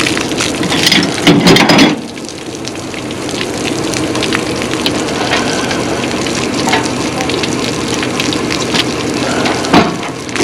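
A steady watery hiss over a low, even machine hum from the trout-stocking truck, with a louder rushing surge about a second in.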